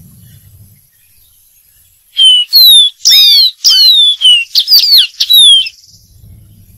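Dark-throated seedeater singing: one phrase of about eight clear whistled notes, most of them sliding downward, starting about two seconds in and lasting about three and a half seconds.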